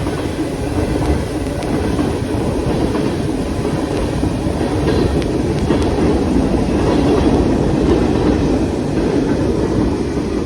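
Train passing close by, its wheels rolling steadily along the rails.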